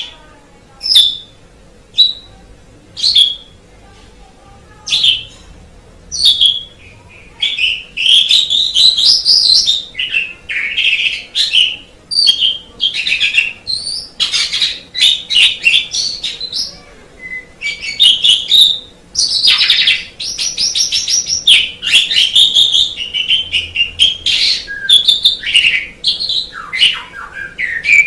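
Asian pied starling (jalak suren) singing: first a series of single sharp calls about a second apart, then, from about seven seconds in, a long, varied, rapid song of whistles and chattering notes.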